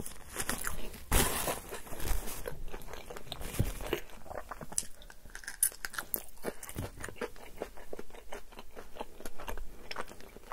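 Close-miked chewing of food: a run of crunches and wet mouth clicks. About a second in there is a loud rustling burst, a paper napkin wiped across the mouth.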